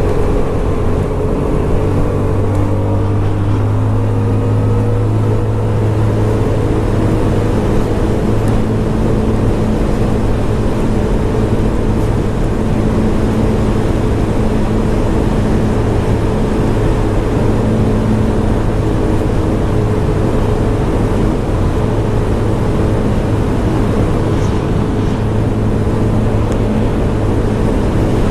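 Scomadi TT125 scooter's 125cc engine running under way, with wind and road noise. Its note eases down in the first few seconds, then holds at a steady cruise.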